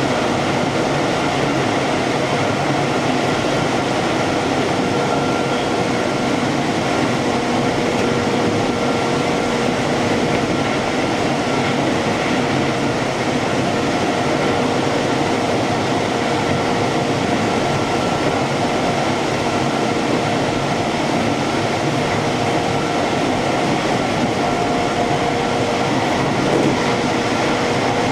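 Keihan Main Line electric train running between stations: steady rolling noise of wheels on rail with a few faint steady tones.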